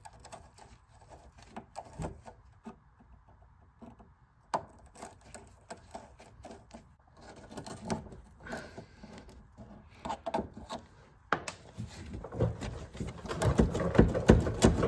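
Hand tools and parts being handled on a car's engine: scattered clicks, knocks and scrapes that get busier and louder over the last few seconds.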